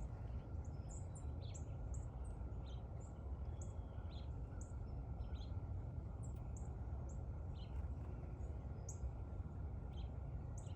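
Small garden birds chirping: short, high chirps, about one or two a second, over a steady low background rumble.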